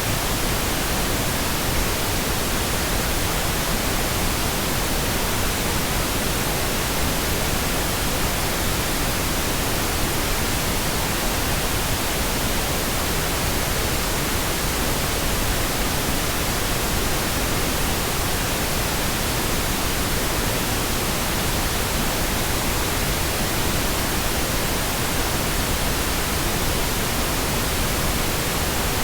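Pink noise: a steady, even hiss across the whole range of pitch, unchanging in level.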